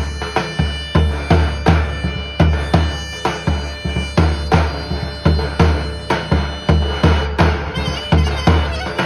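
Folk music: a reed wind instrument holds a loud melody over a steady, regular bass drum beat.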